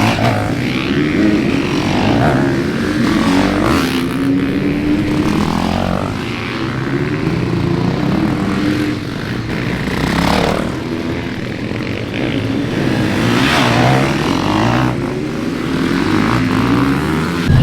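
Several motocross bike engines running together, revving up and down as the bikes race around the track.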